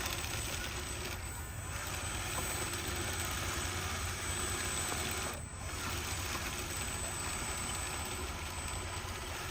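Radio-controlled construction truck running: a steady mechanical noise with small clattering, dipping briefly twice.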